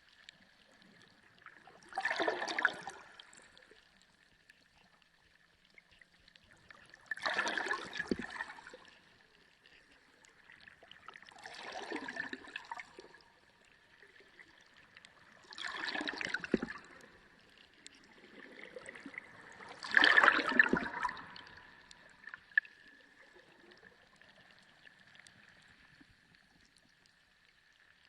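Water gurgling and sloshing in five surges, one about every four to five seconds, the loudest about twenty seconds in. A faint steady high tone runs beneath them.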